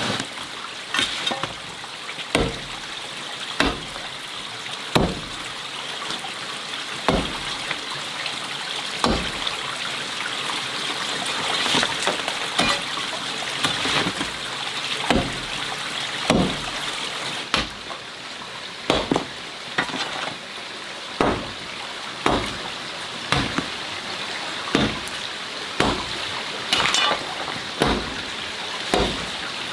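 A steady hiss with a regular knock over it, struck roughly once every second to second and a half.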